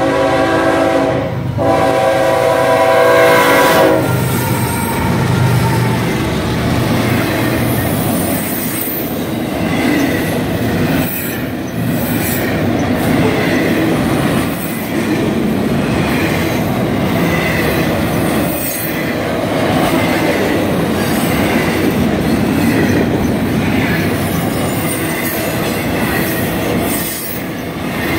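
Freight train's locomotive horn sounding as the train reaches the crossing, broken once about a second and a half in and ending about four seconds in. Then the double-stack container cars roll past with a steady rumble, irregular clacks and some squeal from the wheels.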